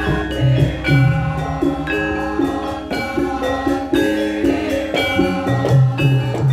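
Javanese gamelan ensemble playing a lengger gending: struck metallophones ringing in layered interlocking notes over a steady low beat.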